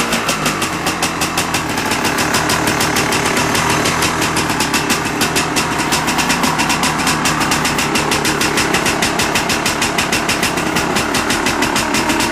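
Yamaha Tri-Z three-wheeler's two-stroke single-cylinder engine idling steadily with a fast, even pulsing beat; the owner thinks it runs a little rich.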